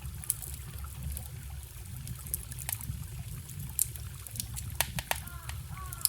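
Campfire crackling, with sharp irregular pops over the steady low rush of a forest stream. A few faint warbling tones come in near the end.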